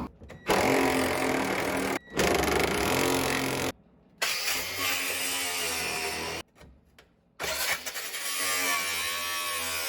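Angle grinder running and cutting through a seized steel cab mount bolt. It runs in several stretches, cut off abruptly between them, and its pitch sags and recovers as it bites into the metal.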